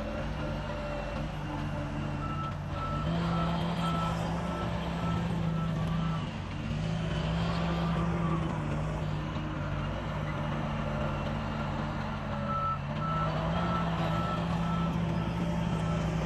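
Backup alarm of a heavy machine beeping about twice a second, in two spells, over the steady running of a heavy diesel engine.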